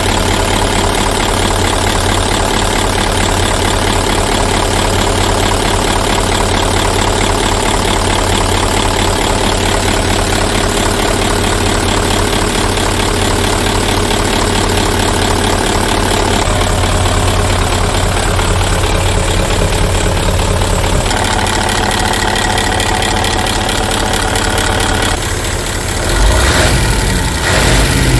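Hino F20C 20-litre V8 diesel engine of a Hino Super Dolphin truck idling steadily. Near the end it dips briefly and then picks up as the engine is revved.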